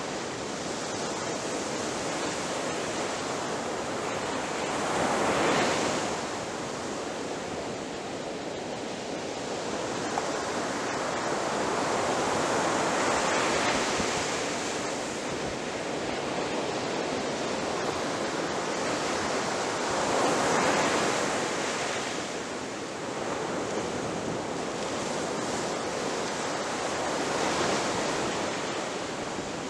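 Ocean surf washing onto a beach: a continuous rush of water that swells four times, about every seven seconds, as each wave breaks.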